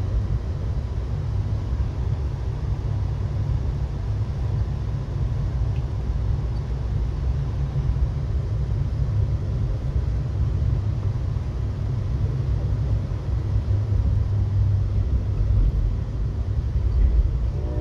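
Steady low rumble of a passenger train rolling along, heard from inside an Amtrak Heartland Flyer coach.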